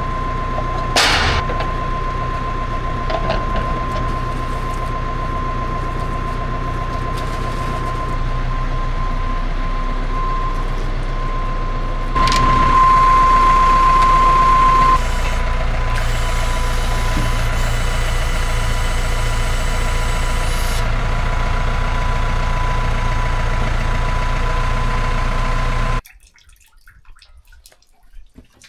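A motor or engine running steadily with a constant high whine, with a brief sharp sound about a second in and another about twelve seconds in. It cuts off suddenly a few seconds before the end, leaving only faint sounds.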